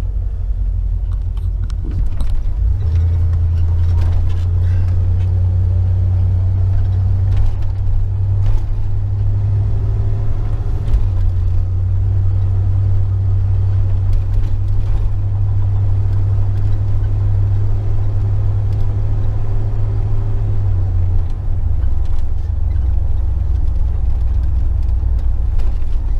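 Car driving: a loud, steady low rumble of engine and road noise that grows heavier about three seconds in and eases slightly near the end.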